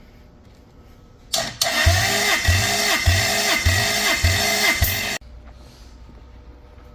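Lexus 3UZ-FE 4.3 V8 engine being cranked over by its starter motor for a compression test. The starter whines steadily for about four seconds, with a heavy beat about every 0.6 s as the engine turns over, then stops abruptly.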